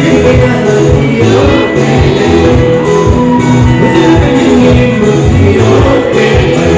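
Loud live band music: a steady drum beat and bass under a singing voice.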